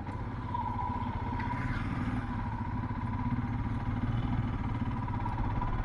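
Motorcycle engine running steadily on the move: a low, even rumble with a steady high whine over it.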